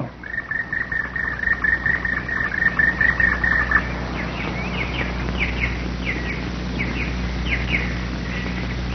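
Woodpecker calling: a rapid run of repeated high notes for about three and a half seconds, then a string of short, separate falling calls, about two a second. A steady low hum lies underneath.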